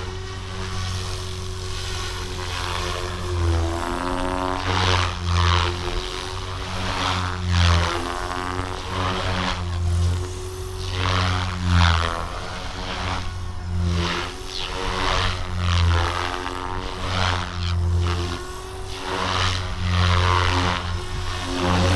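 GooSky RS4 400-size direct-drive electric RC helicopter in flight: a steady whine from its brushless motor and main rotor, with the blade noise swelling and fading every second or two as it is flown through 3D aerobatic moves.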